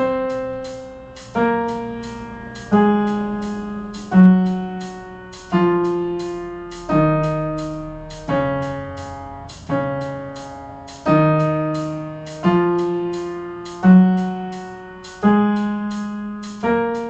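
Piano playing the D-flat major scale in half notes, one note about every second and a half, each left to ring and fade. The notes step down the scale to the low D-flat and then climb back up.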